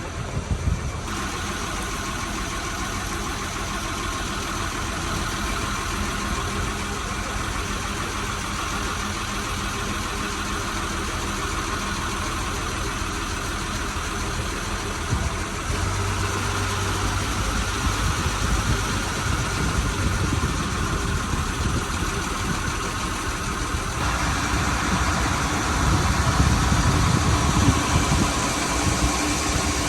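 Boat engine running steadily on the river, growing louder in two steps, about halfway through and again near the end.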